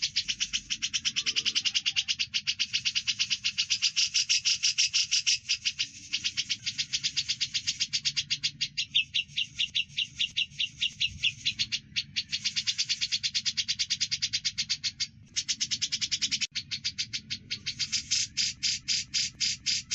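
Rapid, continuous chirping from a recorded songbird masteran track of cucak jenggot (grey-cheeked bulbul) and burung gereja (Eurasian tree sparrow). The chirps come many to the second in long runs, with a few brief breaks.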